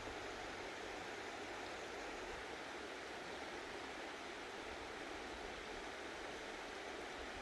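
Mountain stream water rushing steadily over rocks, an even, unbroken hiss.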